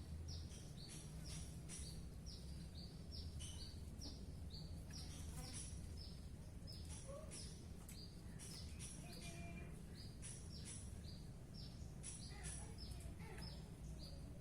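Greater green leafbird (cucak ijo) singing: a fast, continuous run of short, high chirps, each sweeping downward, over a steady low hum.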